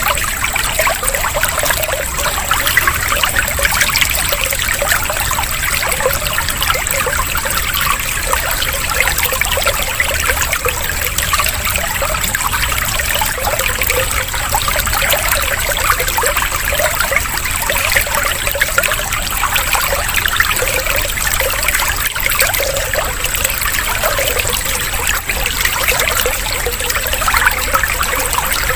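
Water trickling and babbling steadily, without a break.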